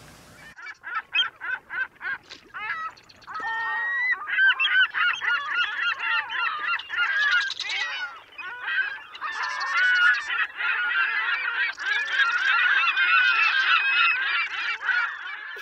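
A flock of birds honking: a few separate honks at first, then many overlapping honks from about four seconds in.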